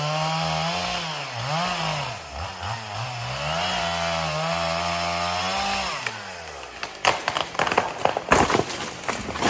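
Two-stroke chainsaw cutting through a dead ash trunk, its engine revving up and down, then dropping off about six seconds in. From about seven seconds, a run of sharp cracks and crashes as the cut tree breaks and comes down through the branches.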